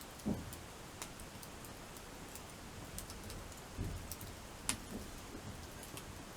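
Crib-stacked wood campfire burning: a steady faint hiss with scattered sharp crackles and pops, and a few dull low thuds, the loudest about a third of a second in.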